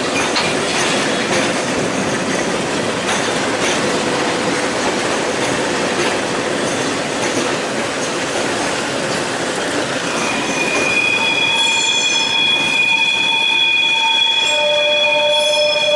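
Passenger train running, heard from an open window of the railcar: a steady rumble and rattle of wheels on track. About ten seconds in, the wheels start a high, steady squeal of several tones that holds to the end, with a lower tone joining near the end.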